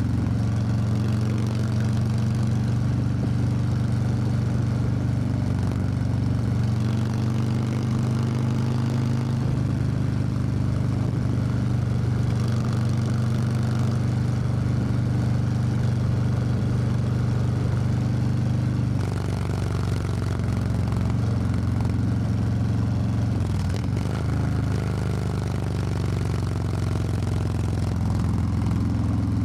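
Harley-Davidson Low Rider S V-twin engine running under way on the open road, its note holding steady with a few small shifts in engine speed. Near the end the pitch rises as the bike accelerates.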